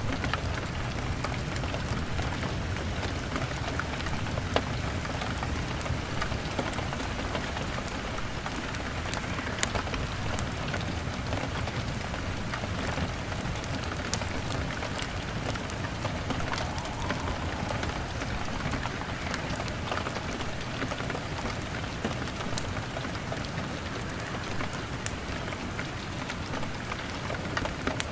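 Steady rain beating on a window pane, a dense even patter with many scattered sharp ticks through it.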